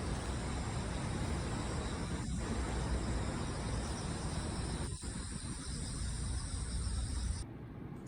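Steady outdoor insect chirring (crickets) with a continuous wide hiss beneath it, cutting off suddenly near the end.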